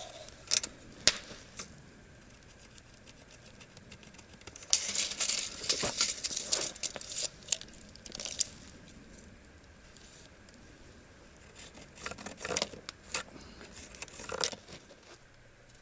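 Hands handling a wooden board and tools while marking it for a cut: scattered sharp clicks, then two stretches of short scratchy rustling and knocking, one in the middle and one near the end.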